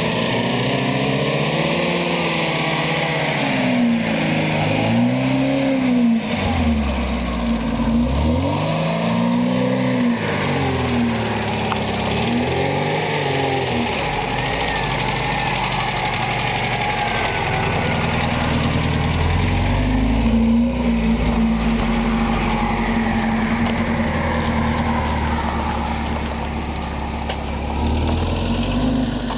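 Lada car engine revving up and down again and again, about five rises and falls, as the car is driven through mud, then running at a steadier, lower pitch.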